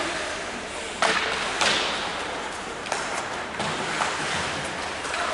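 Several sharp knocks and thuds, three clear ones within the first three seconds, over steady background noise.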